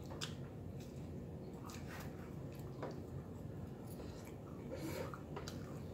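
A man chewing a mouthful of pizza: soft, irregular mouth clicks.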